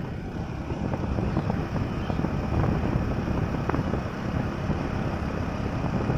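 Hero HF Deluxe's single-cylinder four-stroke engine running with a steady low rumble.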